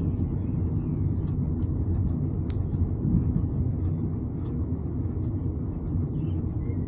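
Steady low rumble of wind buffeting the microphone while riding, with a few faint ticks.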